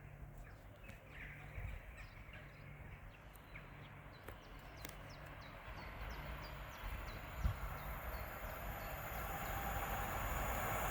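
Small birds chirping, then an approaching electric train whose rail noise and high whine grow steadily louder from about halfway through.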